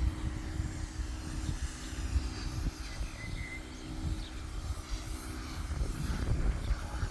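Pressure washer running nearby with a steady motor hum, over irregular low rumbling and thumps.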